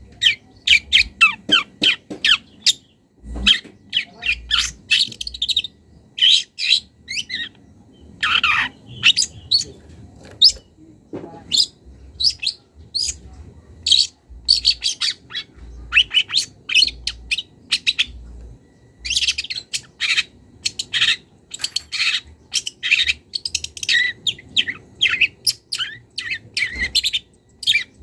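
Young long-tailed shrike singing: a rapid, varied run of short chirps and sharp calls in quick succession, with brief pauses. It is starting to bring out its repertoire of mimicked calls of other birds.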